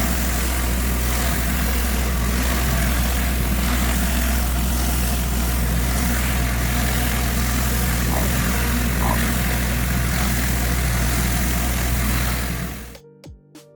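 Pressure washer engine running steadily under a constant hiss of high-pressure water spray, both cutting off suddenly near the end.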